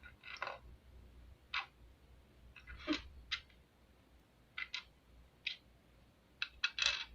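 Light clicks and short rustles of small plastic toy pieces and sticker sheets being handled, about a dozen separate sounds, some in quick pairs near the end.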